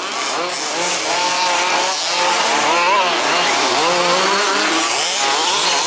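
Several 1/5-scale RC buggies' small two-stroke petrol engines racing together, their pitch rising and falling as they accelerate and brake around the track, with a high chainsaw-like buzz.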